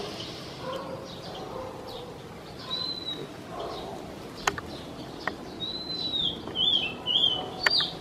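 Songbird calling in clear whistled notes: a single arched whistle, then a longer one about six seconds in, followed by a quick run of short notes and one loud note near the end. A few sharp clicks fall between the notes.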